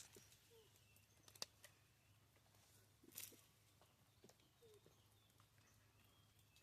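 Near silence, with a few faint scattered taps of pheasants pecking at seed and a few soft, short bird calls.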